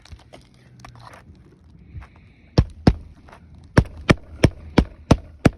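A hammer striking roofing nail heads tucked under asphalt shingle tabs, driving the nails home for the shingle repair. Eight sharp strikes: two about two and a half seconds in, then after a pause six more at about three a second.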